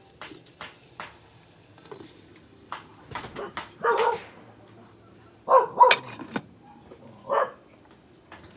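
A dog barking about four times from about four seconds in, after a few light knocks.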